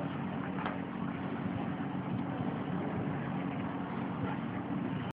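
Steady hum of an engine running at a constant pitch, with a few faint clicks.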